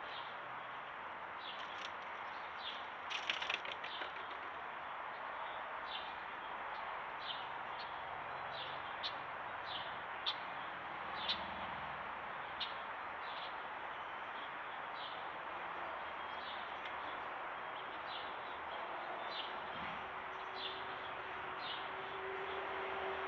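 Birds chirping: short, sharp chirps repeated on and off over a steady background hiss, with a brief louder burst of sharp sounds about three seconds in.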